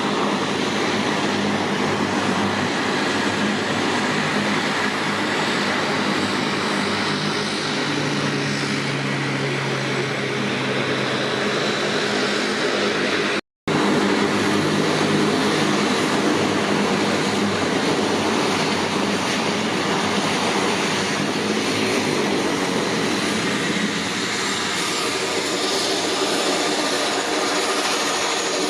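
Twin turboprop engines of a Bombardier Dash 8 Q300 running steadily, a continuous engine and propeller drone with a low hum. The sound cuts out for a split second about halfway through.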